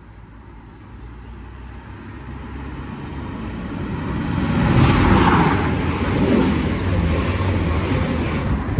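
Class 185 diesel multiple unit approaching and running through the station at speed. Its rumble and wheel-on-rail rush grow steadily louder to a peak about five seconds in, then stay loud as the carriages pass, over a low steady engine drone.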